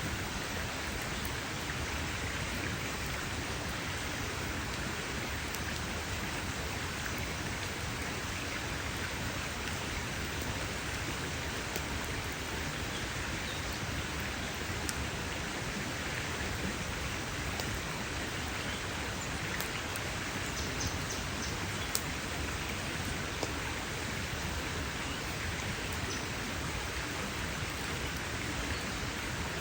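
Wood campfire crackling: a steady hiss with scattered sharp pops, one louder pop about two-thirds of the way through.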